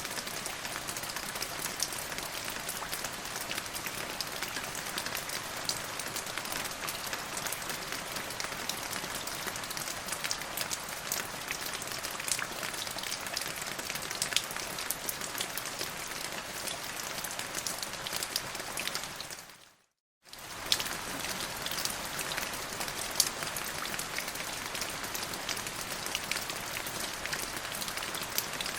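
Steady rain falling, with the ticks of single drops heard through it. About twenty seconds in, it fades out to a brief silence and then comes back.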